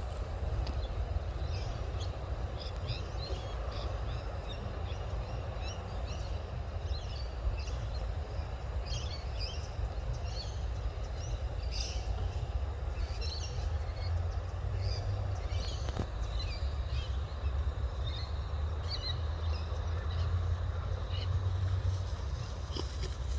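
Birds chirping, short scattered calls throughout, over a steady low rumble.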